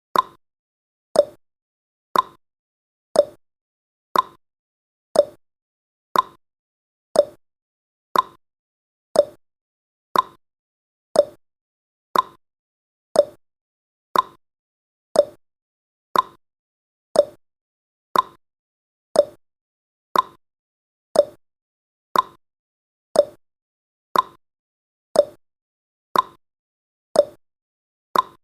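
Countdown timer's ticking sound effect: one short tick every second, alternating between a higher and a lower tick like a clock's tick-tock.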